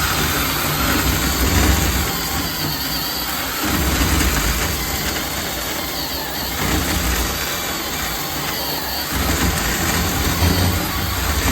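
Craftsman V20 10-inch cordless chainsaw with a brushed motor, cutting a round off a log: the motor and chain run steadily, and the load on the motor rises and eases as the chain bites through the wood.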